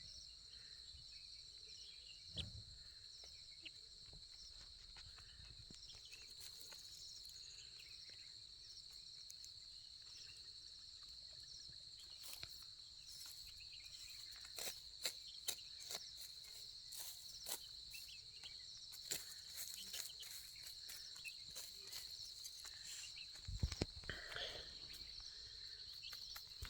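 Steady, high-pitched insect trill, faint and continuous, with scattered soft clicks and rustles growing more frequent in the second half and a low thump near the end.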